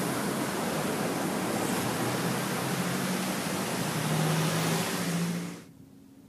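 Heavy rain pouring down in a thunderstorm, a dense steady hiss that cuts off abruptly about five and a half seconds in.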